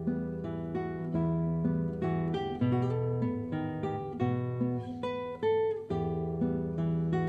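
Background music: acoustic guitar playing a plucked melody over bass notes, with notes and chords changing about every half second.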